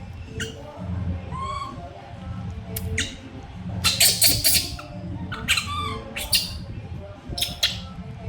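Pet monkey calling loudly: a series of short, shrill squeals with a few rising-and-falling whimpering calls between them, the contact calls of a young monkey looking for its owner.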